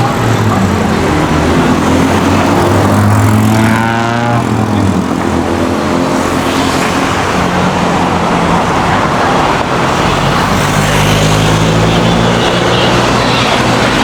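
Street traffic: a motor vehicle running close by with a steady low engine hum, one passing about four seconds in.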